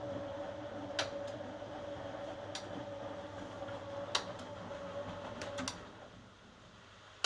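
1980 HUWA Automatic Standard 4 washing machine running: a steady hum with a sharp tick about every second and a half. The hum cuts out about six seconds in, and a louder click follows near the end.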